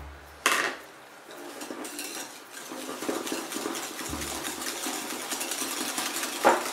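Wire whisk beating egg yolks and sugar in a bowl, a fast, continuous clatter of the wires against the bowl's side. A sharp knock about half a second in, and another near the end.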